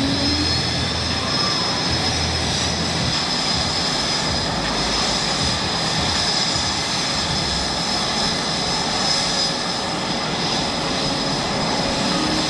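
Blue Angels F/A-18 Super Hornet jet engines running steadily, a dense roar with a constant high-pitched whine.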